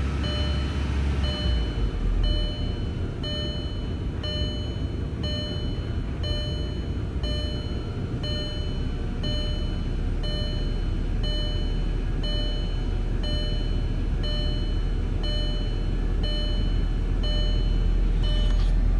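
2003 VW Passat 1.8T turbocharged four-cylinder engine idling just after a throttle blip, with a rough idle that the owner suspects comes from a vacuum leak. A warning chime dings about once a second over it.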